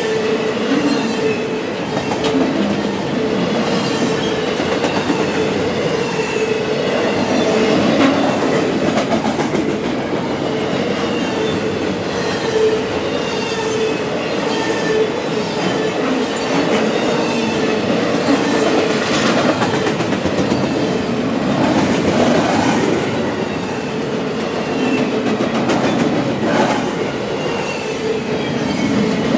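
Norfolk Southern double-stack container train passing close by: the well cars rumble steadily and the wheels clack over rail joints, with a steady whining tone over it.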